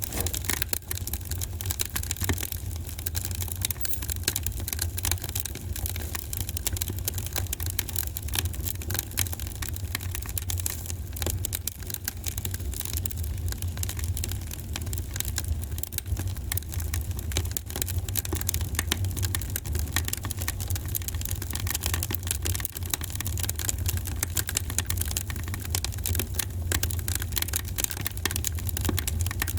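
Wood fire crackling in a fireplace: a dense run of small snaps and pops over a steady low rumble.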